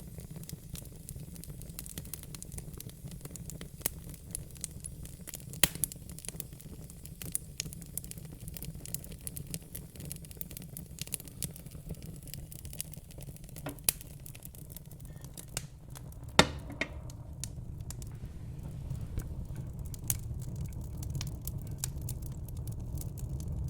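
Wood fire in a fire pit crackling and popping, with scattered sharp snaps, one louder pop about two-thirds through, over a steady low rumble.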